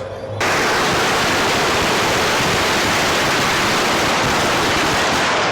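A long string of firecrackers going off in a dense, continuous crackle that starts abruptly about half a second in and keeps up at full intensity.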